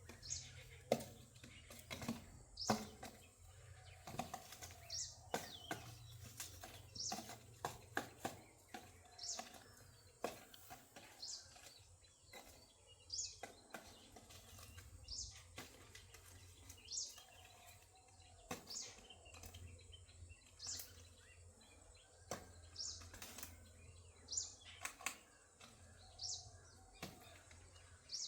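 Small birds chirping: short high calls that drop in pitch, repeated every second or so, among frequent sharp taps and knocks, over a faint steady low hum.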